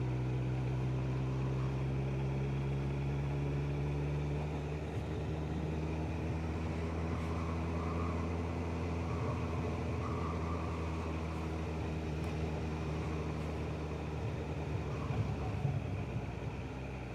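Motorcycle engine running steadily while riding, a continuous even engine note, slightly softer from about five seconds in.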